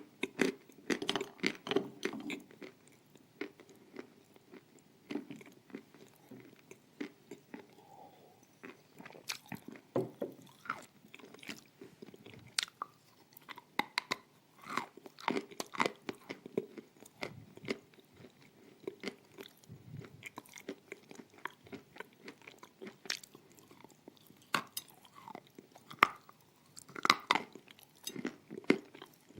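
Close-up crunching and chewing of dry, crumbly pieces of edible clay, sharp irregular crackles from bites and chews, with louder clusters of crunches just after the start and near the end.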